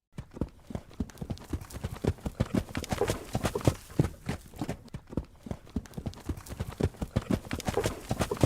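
Hooves of a running horse: a fast, uneven drumming of hoofbeats on the ground, several strikes a second.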